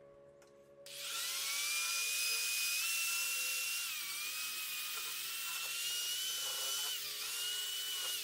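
High-speed rotary tool (Dremel-type) starting up about a second in and running with a high-pitched whine and hiss, its pitch dipping briefly twice.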